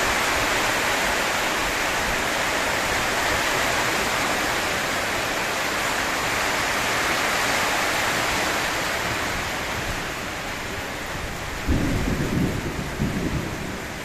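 Heavy rain falling steadily in a downpour. Near the end a short, uneven burst of low rumbling rises over the rain.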